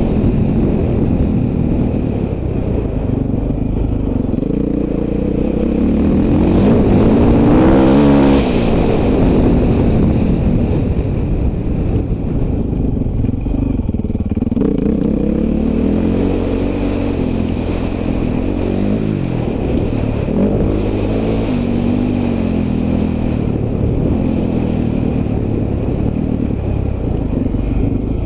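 Motocross bike engine being ridden, its pitch rising and falling repeatedly with the throttle and gears, with a hard rev-up about eight seconds in that is the loudest moment.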